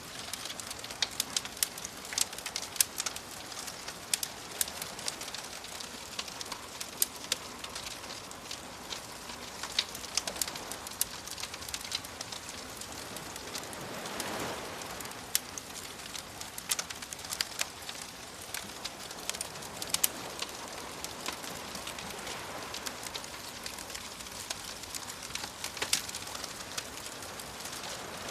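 Wood fire crackling with frequent sharp pops over a steady wash of waves, one wave swelling up about halfway through.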